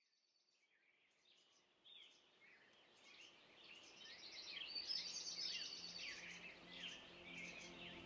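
Several small birds chirping and calling over one another in quick, short gliding notes, fading in from near silence and growing steadily louder.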